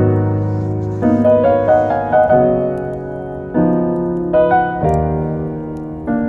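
Soft piano music: slow chords and single notes struck every second or so, each left to ring and fade.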